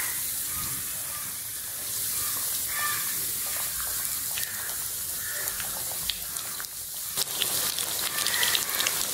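Breadcrumb-coated rice cutlets sizzling as they shallow-fry in hot sunflower oil in a pan: a steady hiss with small pops, which come more often in the last couple of seconds.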